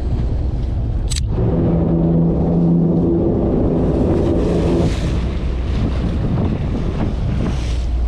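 Wind buffeting the microphone over the low rumble of a fishing boat at sea. There is one sharp click about a second in, and a steady hum of several pitches lasts for a few seconds after it.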